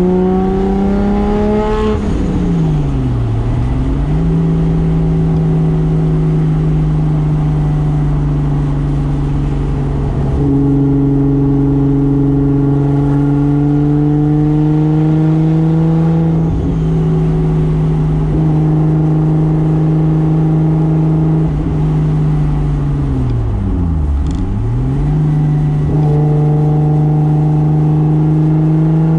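Single-turbo 2JZ inline-six of a Toyota Soarer running under load, heard from inside the car. The revs climb, drop sharply and pick back up about three seconds in, hold mostly steady for a long stretch, dip and recover again near the end, then climb once more.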